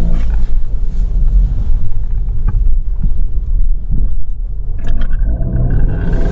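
Lada Vesta driving, heard inside the cabin: a steady low rumble of engine and road noise as it goes over a speed bump, with no suspension squeak, since the worn anti-roll bar bushings have been replaced. A thin steady tone comes in about five seconds in.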